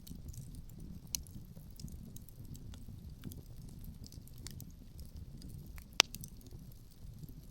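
Wood fire crackling with scattered small pops and one sharp, loud pop about six seconds in, over a low rumble of wind.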